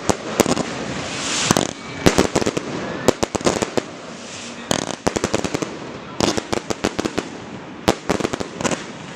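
Fireworks display: aerial shells bursting in sharp bangs, fired in rapid clusters of several a second, with short lulls between volleys.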